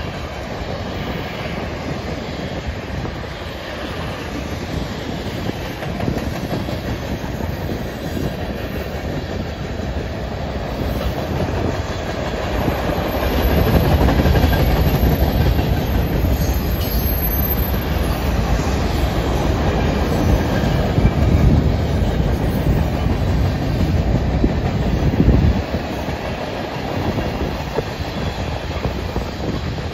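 Freight cars of a CN train rolling past at speed, their steel wheels rumbling along the rails. The sound grows louder about halfway through, then drops suddenly a few seconds before the end.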